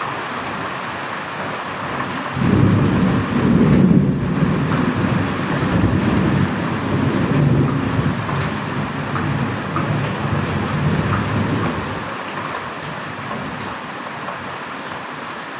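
Steady heavy rain, with a long, deep roll of thunder that starts suddenly a couple of seconds in and rumbles on for about ten seconds before fading back under the rain.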